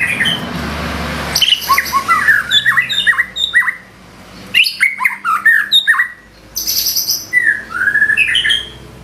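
White-rumped shama singing a fast run of chirps and whistled notes, the mimicked phrases (isian) that keepers prize. The song comes in three bursts with short pauses about four and six seconds in, over a steady hiss during the first second and a half.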